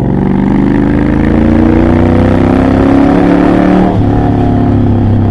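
Triumph Bobber's 1200 cc parallel-twin engine, heard through a Motone Mayhem X-pipe exhaust with practically no silencing, pulling hard under acceleration. Its pitch climbs steadily for about four seconds, then drops suddenly and settles at a lower steady note.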